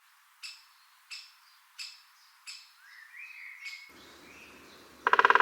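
Great spotted woodpecker calling: short, sharp, high single 'kik' notes about every 0.7 seconds, five in all. Near the end comes a loud half-second burst of very rapid pulses.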